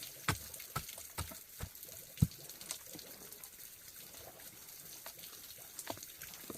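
Water splashing and dripping, with a run of short light knocks, about two a second at first, the loudest a little after two seconds in, then only occasional ones.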